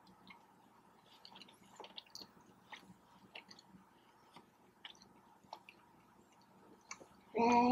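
Close-up mouth sounds of a person chewing a cheesesteak sub: soft wet smacks and small clicks scattered throughout. Near the end there is a short, louder burst of voice.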